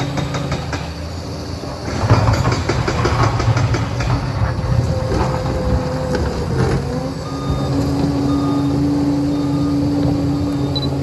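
Liebherr 746 crawler dozer's diesel engine running under load, with clanks and rattles from its tracks and blade as it works. It gets louder about two seconds in.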